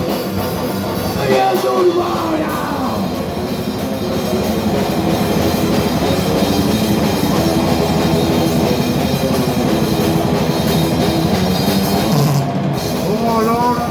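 Thrash metal band playing live: loud, dense heavy-metal music with a drum kit.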